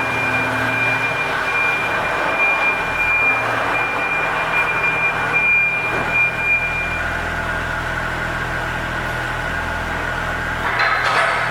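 IHI 25V-4 mini excavator's diesel engine running steadily, with a high steady whine that stops about seven seconds in and a short hiss near the end.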